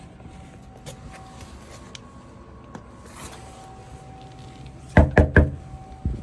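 Three quick, loud knocks on a door about five seconds in, and one more near the end.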